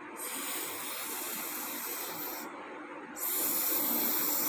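A woman making the letter S sound, a long drawn-out "sssss" hiss, twice, each about two seconds, with a short break between.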